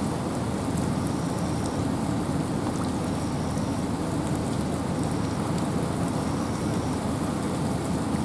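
Steady rain and wind in a forest: a dense, even rush of noise, heaviest in the low range, with faint scattered drop ticks.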